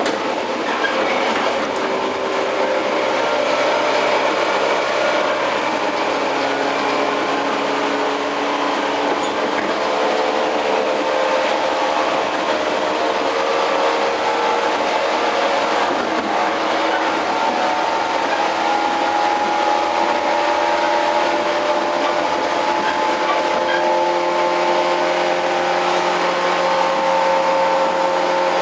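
Running noise inside a JR 115-series electric train's motor car: wheels on rail and the whine of the traction motors and gears. The whine falls in pitch over the first ten seconds or so, then rises slowly in the second half as the train picks up speed again.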